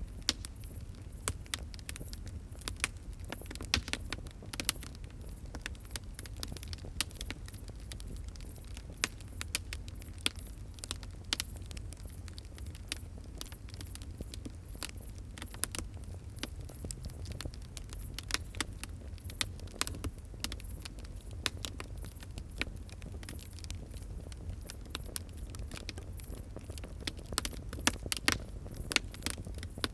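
Wood fire crackling: frequent irregular sharp pops and snaps over a low steady rumble, with a cluster of louder pops near the end.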